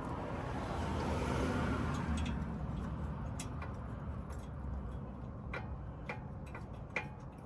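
Scattered metallic clicks and clinks of hand tools and bolts as bolts are put back into the suspension, after a louder stretch of noise in the first couple of seconds.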